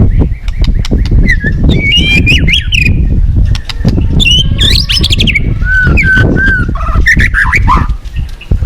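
White-rumped shama singing a varied run of whistled, warbling phrases over loud rushing, splashing river water.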